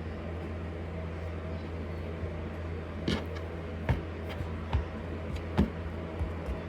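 A steady low hum, with a handful of light knocks and clicks in the second half, typical of work in a kitchen.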